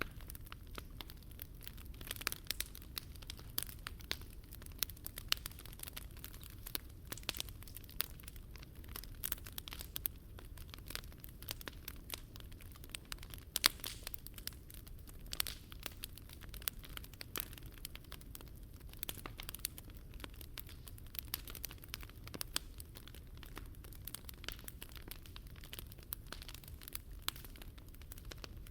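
Wood fire burning in a Picogrill 398 fire stand, crackling with dense, irregular pops and snaps, one sharper pop about halfway through, over a steady low rumble.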